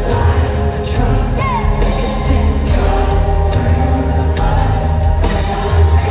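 Live country band with drums and bass under a female lead vocal, performing a country song loudly over a PA.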